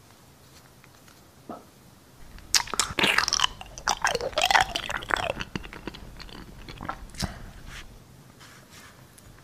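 Close-miked eating sounds: wet crunching, biting and squelchy chewing, loud for about three seconds starting a couple of seconds in, then tapering off into scattered smaller smacks and clicks.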